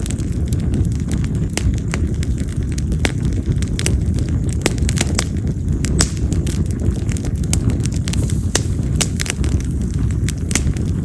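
Campfire of split wild mountain cherry (yamazakura) logs burning, with frequent sharp crackles and pops at irregular intervals over a steady low rumble.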